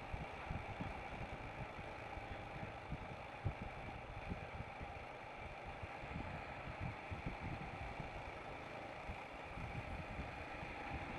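Royal Enfield Himalayan motorcycle running steadily while riding along, with wind buffeting the camera microphone in irregular low thumps.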